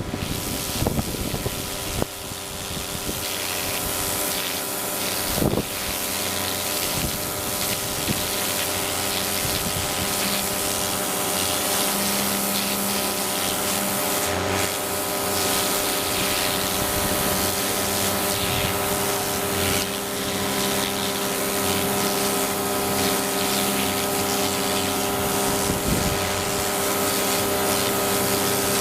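Greenworks GPW1600 1600 psi electric pressure washer running: its motor and pump give a steady hum under the continuous hiss of the high-pressure water jet.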